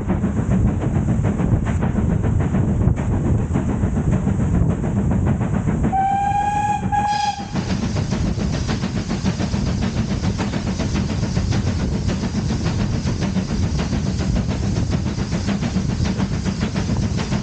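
Heritage train running on the rails with a steady rumble and clatter. About six seconds in, its whistle sounds one note, held for about a second and a half with a brief break near the end.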